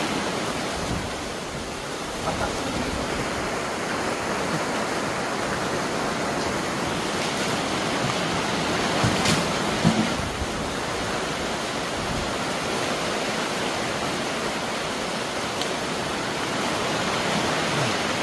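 Heavy downpour of rain, a dense, steady hiss heard from under a camping shelter, with a few light knocks about halfway through.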